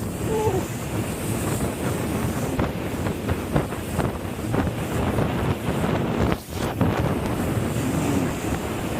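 Wind rushing over the microphone and water splashing on a moving jet ski, with frequent short knocks and a brief drop in the noise about six and a half seconds in.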